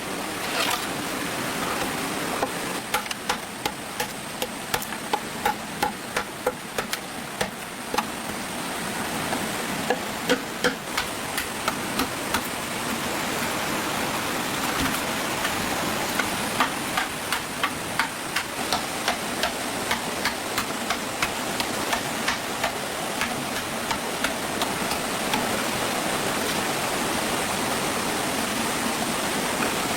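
Irregular sharp taps and knocks, several a second through the first half and sparser later, over a steady rushing noise like running water.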